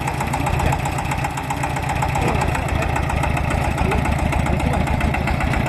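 Vintage kerosene stationary engine running with a steady, rapid, even beat.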